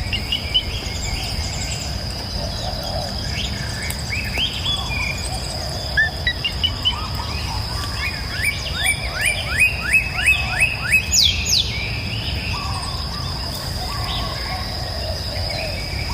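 Songbirds singing by a river: scattered chirps, then a run of about eight quick rising whistled notes in a row, over a steady high whine and the low rush of flowing water.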